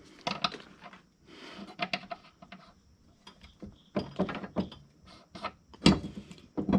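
Irregular clicks, clanks and short scraping of hand tools and metal parts being worked by hand, with a sharper knock about six seconds in.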